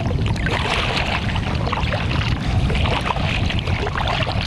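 Old Town Next canoe being paddled into choppy water, with paddle splashes and water lapping against the hull that swell about a second in and again about three seconds in. Wind rumbles steadily on the microphone throughout.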